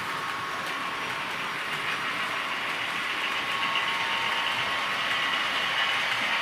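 Model DB V200 diesel locomotive running on a model railway layout: a steady diesel engine sound with a high hum that grows slightly louder toward the end.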